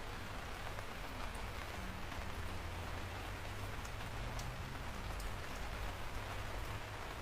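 Steady rain falling, a constant hiss with scattered sharp drop ticks and a low rumble underneath.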